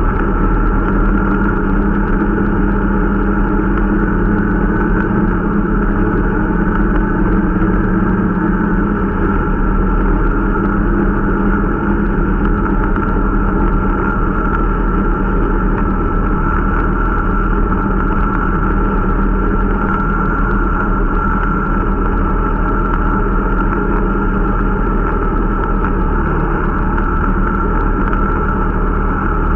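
Irbis Dingo T125 snowmobile's 125 cc single-cylinder engine running steadily at an even speed while the machine is being run in.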